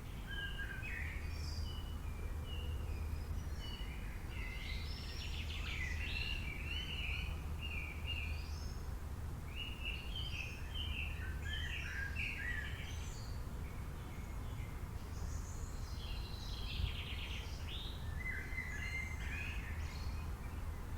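Small birds chirping and twittering in quick clustered phrases, several calls overlapping, over a steady low rumble.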